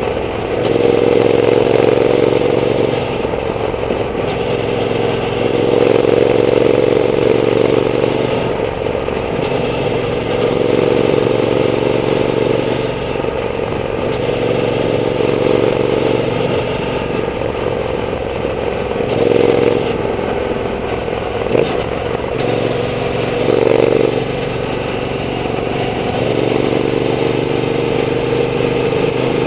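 Triumph Bonneville T120's 1200 cc parallel-twin engine running through an aftermarket Zard exhaust while riding. The exhaust note rises and falls every few seconds as the throttle is opened and eased.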